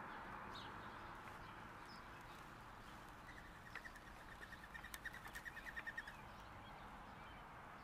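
Faint background hiss with a bird singing a rapid trill of quick, even notes, starting about three seconds in and lasting nearly three seconds.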